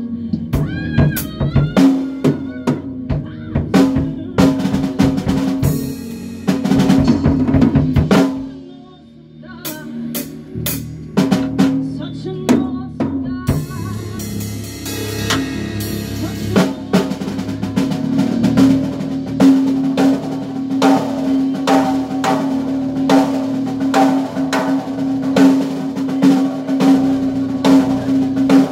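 A band rehearsing, with the drum kit to the fore: snare and bass drum hits over a sustained low note. The playing drops away briefly about a third of the way in, then comes back with a fast, even beat.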